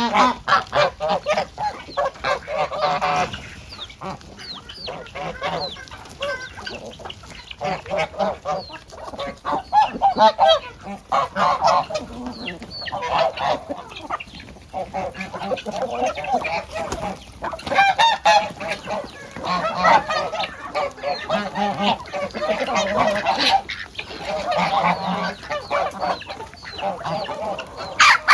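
Domestic geese honking and chickens clucking, many short calls overlapping one after another with brief lulls between.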